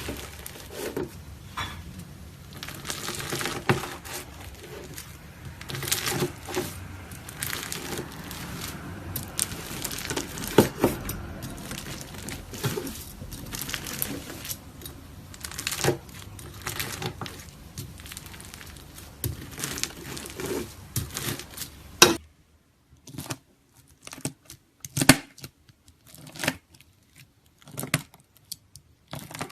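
Knife cutting and pressing through crunchy slime, a dense run of crackles and crunches. About 22 seconds in it changes abruptly to sparser, sharper single crunches with quiet gaps between them.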